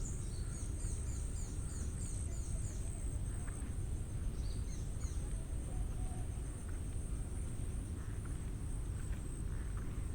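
A bird sings a quick run of repeated high falling notes, about three a second, for the first three seconds, then a shorter burst about halfway. Under it runs a steady high insect drone and a constant low rumble.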